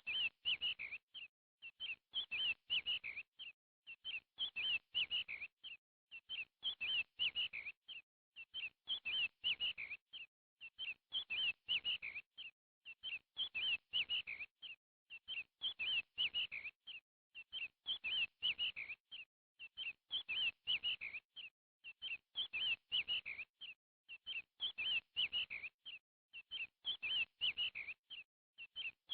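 Bird song: clusters of quick high chirps, the same phrase repeating evenly about every two seconds.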